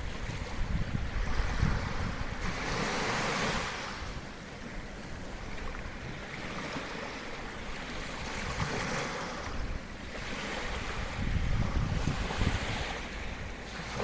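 Sea waves breaking and washing onto the shore, the wash swelling three times, with wind buffeting the microphone in gusts.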